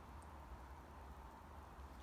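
Near silence: a faint steady low rumble with light hiss.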